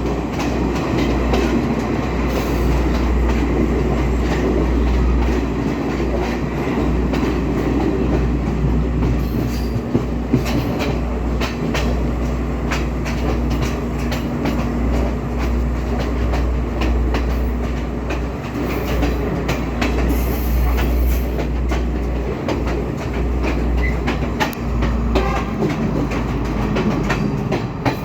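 Train running along the track: a steady low rumble, with the wheels clicking and clattering over rail joints throughout.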